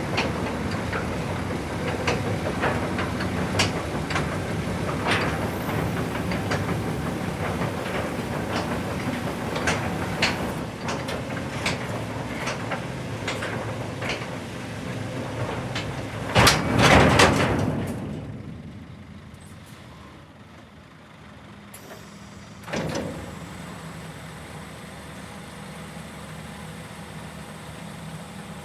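Scania R490 truck running, with repeated clanks and knocks over the engine, then a loud hiss of released air about seventeen seconds in, after which it runs more quietly.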